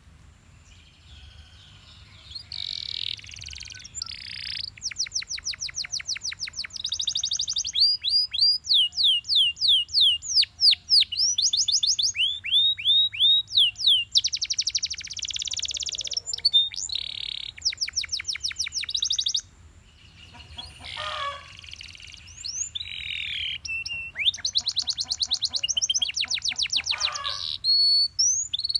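Canary singing: fast trills of repeated high, downward-sweeping notes, each phrase a different trill, with brief pauses between phrases.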